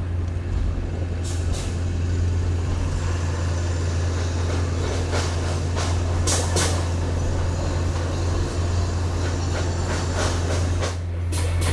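A vehicle driving slowly, its engine giving a steady low drone, with a few short rattles or clatters along the way.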